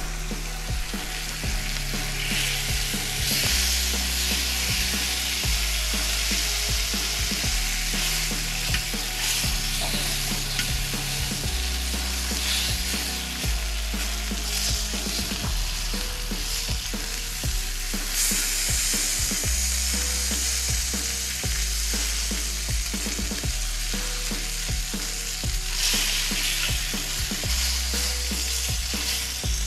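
Food sizzling as it fries in a pan, most likely the bacon slices that start the dish, with a steady hiss throughout. A background music track with a stepping bass line plays underneath.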